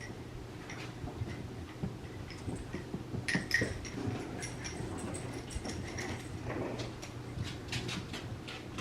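French Bulldog puppies moving about, with scattered light clicks and taps, thickest near the end, and a couple of brief high squeaks a third of the way in, over a low steady hum.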